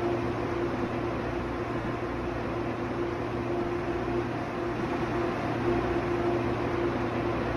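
Steady hum and hiss inside an Airport Express train carriage: the air-conditioning and onboard equipment running, with a faint steady tone over the noise.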